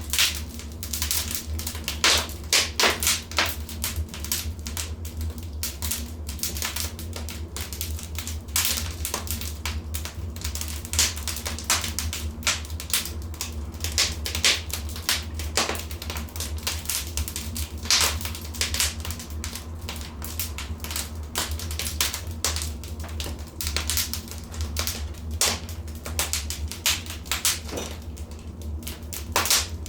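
Wood fire burning in a fireplace, crackling with a constant patter of small snaps and frequent sharper pops, over a steady low hum.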